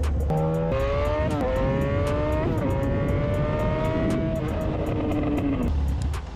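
Motorcycle engine accelerating hard, its pitch climbing with quick breaks at the gear changes, then holding high for a couple of seconds and dropping away near the end.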